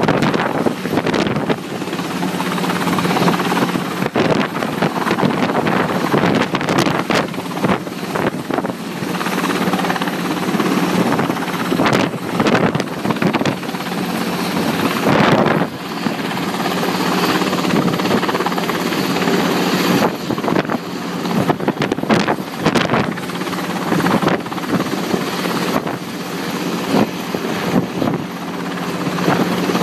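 Helicopter running close by, its turbine and rotor making a loud continuous noise over a steady hum, the level wavering up and down.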